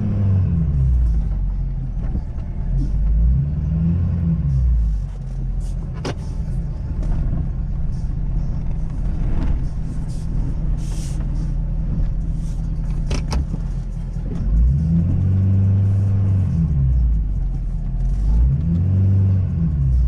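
Ford Super Duty pickup's 6.7-litre Power Stroke V8 turbodiesel running under load, revving up and easing off several times as the plow truck pulls forward and backs up to break up packed ice. A few short sharp clicks come in between.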